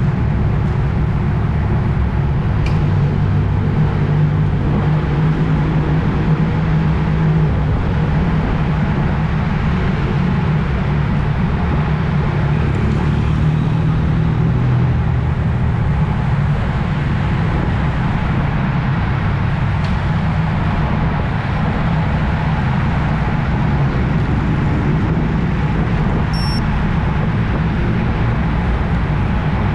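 Steady wind rush and low road rumble over the microphone of a camera riding along on a road bike at speed, with a faint low hum underneath.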